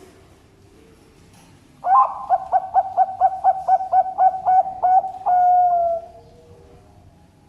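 A zebra dove (perkutut) singing one song, starting about two seconds in: an opening note, a quick run of about a dozen short coos at roughly four a second, then a long drawn-out final note that falls slightly.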